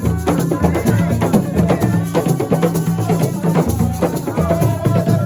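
Live band music: a bass line stepping between low notes under busy, dense percussion with sharp clicking strikes.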